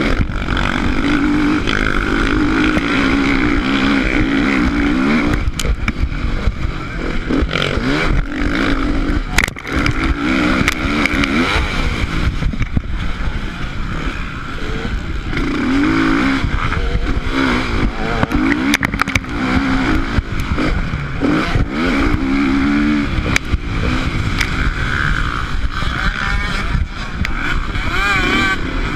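Motocross bike engine heard from on the bike, its pitch rising and falling again and again as the throttle is opened and closed, over steady wind noise and scattered knocks.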